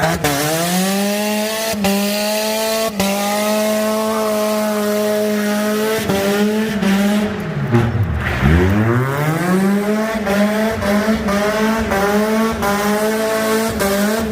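Honda Accord VTEC engine with an open exhaust held on the rev limiter during a burnout, with tire squeal under it. About eight seconds in the revs fall sharply and climb straight back up to the limiter.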